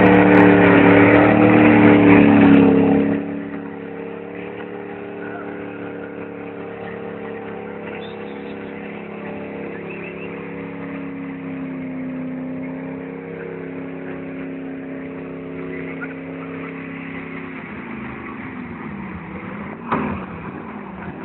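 Vehicle engine held at high revs during a tyre burnout. It is loud for about the first three seconds, then drops to a quieter, steady note whose pitch wavers. Near the end the pitch glides up and down, and there is a sharp knock.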